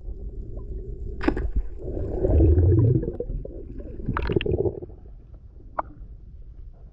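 Water gurgling and sloshing around the microphone, with a louder low surge between two and three seconds in and sharp clicks about a second in and about four seconds in.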